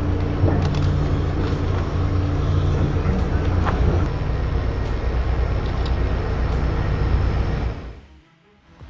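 Heavy machine engine running steadily under load, a constant low drone that drops away suddenly about eight seconds in.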